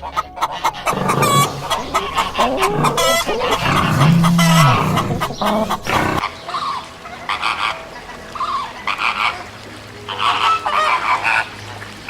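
Birds calling and honking, many voices overlapping, with an abrupt cut about six seconds in to a second stretch of shorter, repeated calls.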